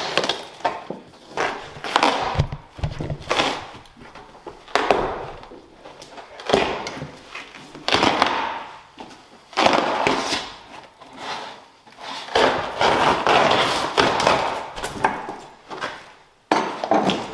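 Hand tools knocking, prying and scraping on wooden stair treads as carpet and fasteners are torn out: an irregular run of knocks and scrapes.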